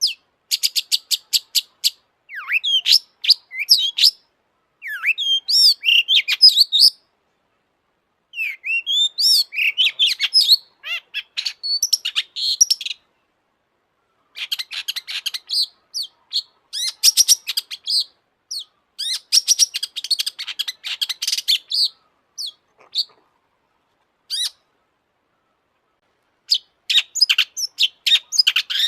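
Long-tailed shrike (cendet) singing loudly in bursts of fast chattering and varied whistled phrases, with short pauses between the bursts.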